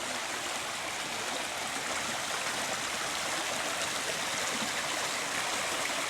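A stream running steadily, an even rushing of flowing water.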